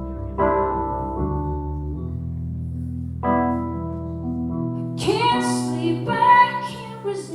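Slow piano chords struck every second or two and left ringing, with a woman's singing voice coming in about five seconds in.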